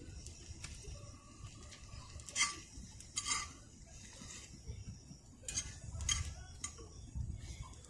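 Scattered light clicks and knocks of camp cookware and utensils being handled, with about five sharper clinks spread through the middle.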